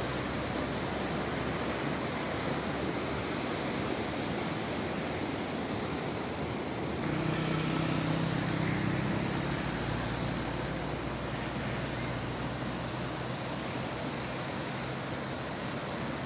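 Floodwater rushing in a steady, heavy roar from an overflowing river. About seven seconds in, a low humming tone rises over it for a few seconds.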